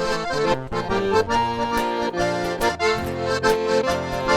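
Accordion playing the instrumental introduction to a gaúcho song, sustained chords and melody with regular rhythmic accents.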